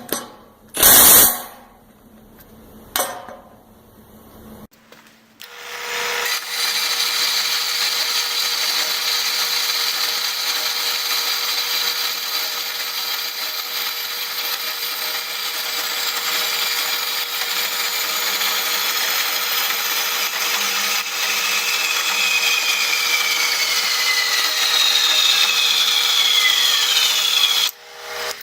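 A few sharp knocks, then a steady mechanical noise starting about five seconds in, with falling whistle-like tones near the end, cutting off suddenly.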